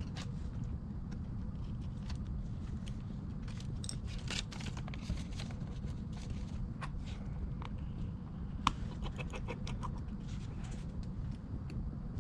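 Scattered small clicks and short scrapes from hand tools and handling on the iPad being repaired, over a steady low hum; the sharpest tick comes about two-thirds of the way through.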